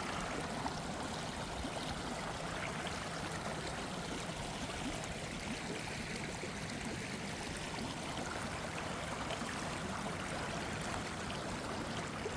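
Water of a small waterfall on a stream, rushing and splashing steadily.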